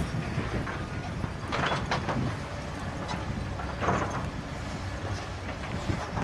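Heavy machinery running: a steady low rumble with a few short louder rushes of noise.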